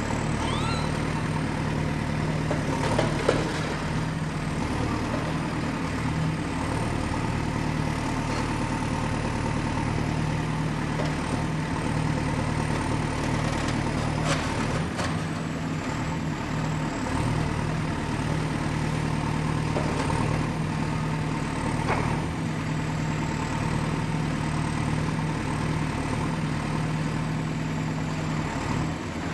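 Excavator's diesel engine running steadily at work, with a few sharp knocks and clanks along the way and a faint high whine that wavers in pitch.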